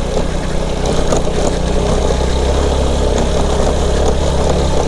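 Motorcycle engine running steadily at low revs, with faint rattling clicks over the top.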